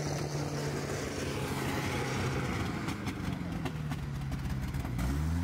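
A UAZ off-roader's engine running steadily as the vehicle pulls away through mud, with a deeper engine rumble coming in near the end.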